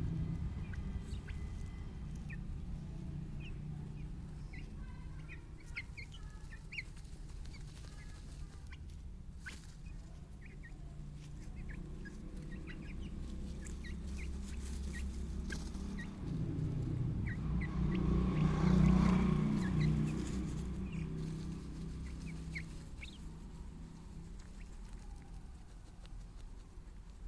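Chickens, with many short high peeps scattered throughout over a low rumble that grows loudest about two-thirds of the way in.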